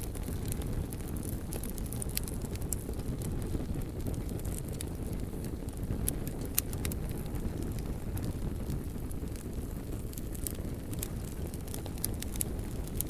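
Wood fire burning: a steady low rush of flames with scattered sharp crackles and pops from the burning wood.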